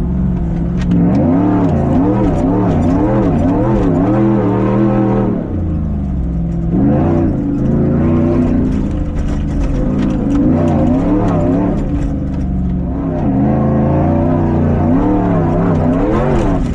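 Prerunner race truck's engine revving hard, its pitch climbing and dropping over and over as the throttle is worked, with brief lifts off the throttle about five seconds in and again around twelve seconds.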